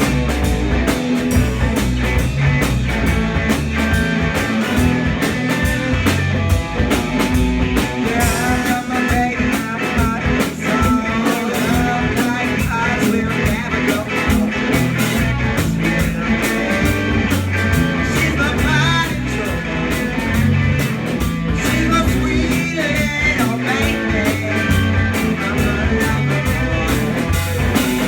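Live rock band playing: electric guitar lines over bass and drums with a steady beat.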